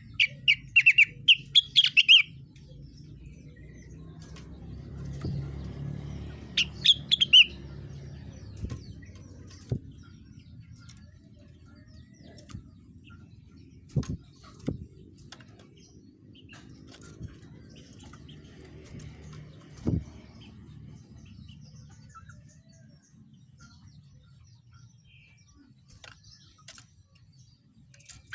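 Rengganis songbird giving rapid chattering trills of sharp chirps in two loud bursts, one at the start and one about seven seconds in, then only a few single clicks. A low rumble runs underneath, and a thin steady high whine fades out about halfway through.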